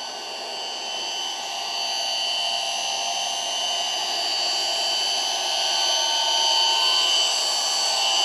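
Small electric water pump running, a steady whir with a high whine, feeding water through the tankless heater; growing somewhat louder partway through. Not too bad for a pump.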